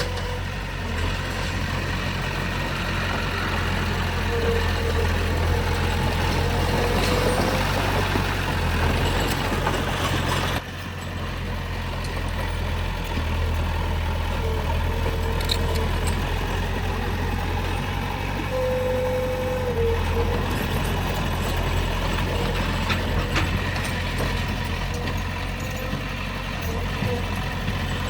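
Heavy earthmoving machinery's diesel engine running steadily, a low rumble with a faint whine, changing abruptly about ten seconds in.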